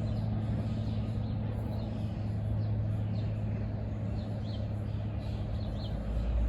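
A steady low motor hum, with many short, faint high bird chirps over it.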